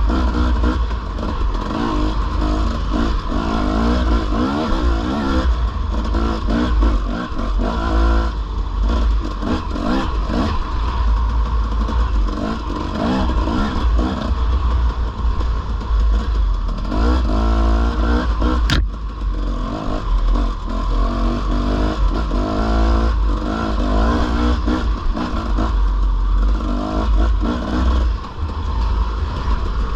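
Dirt bike engine under way on a trail, revving up and down repeatedly as the rider works the throttle and gears. A single sharp click about two-thirds of the way through.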